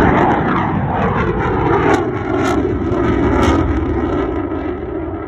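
Fighter jet flying past: a loud jet roar whose pitch sweeps downward as it goes by, then begins to fade near the end.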